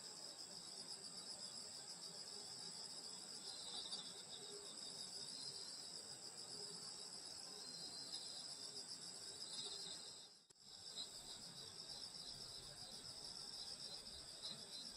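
A steady, high-pitched night chorus of crickets and other grass insects chirring together. It drops out for a split second about ten seconds in.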